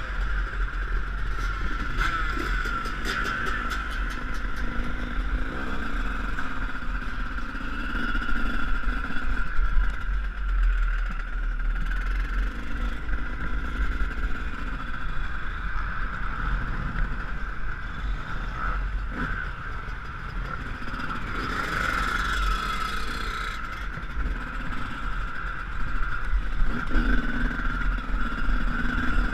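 Yamaha YZ125 single-cylinder two-stroke motocross engine running hard while riding, its revs rising and falling, under a steady low rumble.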